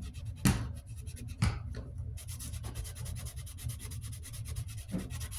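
Hand scrubbing hard at a scuff on a desk fan's base: two knocks, then fast back-and-forth rubbing strokes, several a second, from about two seconds in. The scuff is not coming out.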